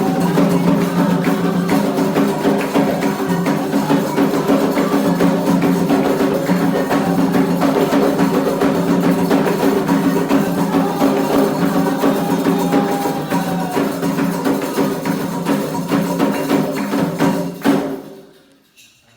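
Candomblé ritual music: hand percussion playing a steady beat under a group of voices singing together, cutting off shortly before the end.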